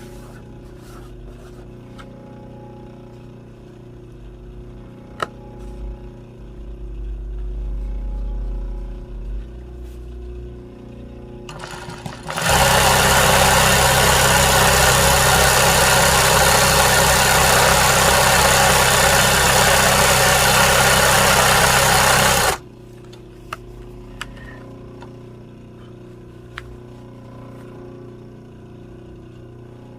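A loud, steady motor-driven appliance noise with a low hum, switched on about twelve seconds in and cut off abruptly some ten seconds later. Faint scattered ticks come before and after it.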